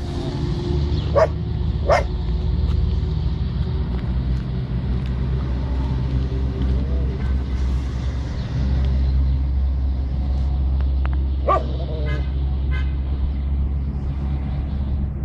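Dogs barking a few times: once about a second in, again a second later, and a short run of barks near the twelve-second mark. A steady low rumble continues underneath.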